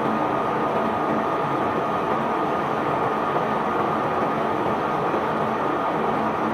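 Steady, unbroken din of a barge being unloaded: machinery running and bulk rock or sand pouring, with a faint steady whine over it.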